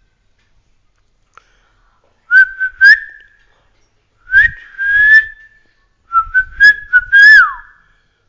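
Loud whistling in three short phrases: held notes with quick upward and downward glides, each phrase ending with a slide.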